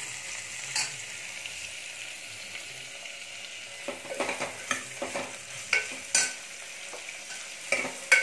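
Sliced onions, green chillies and cashews sizzling in oil in a pressure cooker while a steel ladle stirs them. The ladle scrapes and clinks against the pot once about a second in, then often from about four seconds in.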